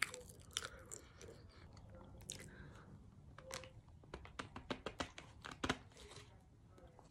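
A person chewing chunks of Chestnut Hill cornstarch close to the microphone: a string of sharp, dry crunches, a few at first and then a quick run of them about four to six seconds in.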